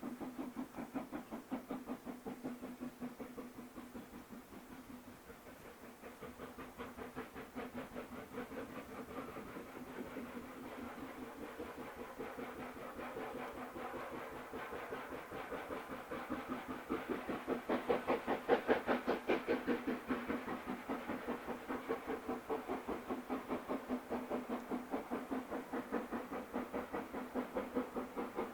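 Steam locomotive working past, its exhaust beating at about three beats a second. The sound builds to its loudest a little past the middle, then eases off.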